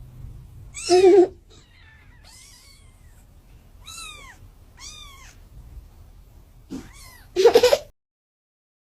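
Cats meowing: two loud, fuller meows, one about a second in and one near the end, with thin, high-pitched kitten mews in between. The sound cuts off suddenly just before the end.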